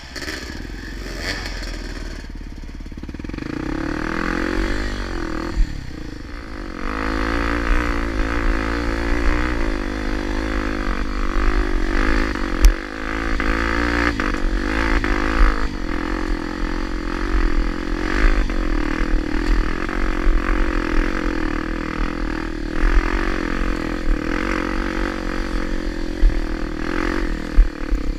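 Honda Tornado 250's single-cylinder four-stroke engine running under load, its revs rising and falling continually as it is ridden over rough enduro ground. A few sharp knocks and clatter from bumps cut through, the loudest about twelve seconds in, over a steady low rumble.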